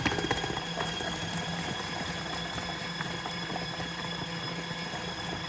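Portable folding mini washing machine running its wash cycle with the lid open: a steady motor hum with a fast, even ticking rattle from its drive mechanism.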